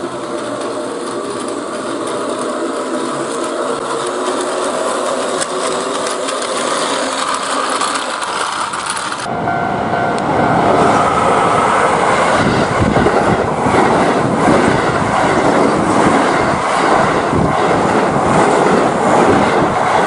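A train running on rails, wheels clattering over the rail joints. About nine seconds in the sound changes abruptly to a louder, noisier clatter, as at a cut between two shots.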